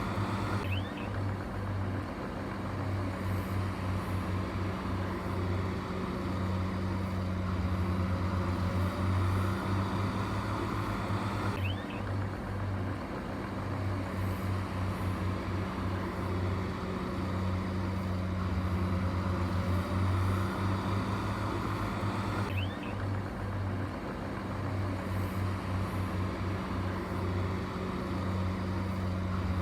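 Heavy construction-machine engine running steadily with a deep, even hum. The same stretch of engine sound repeats about every 11 seconds, with a brief break at each repeat.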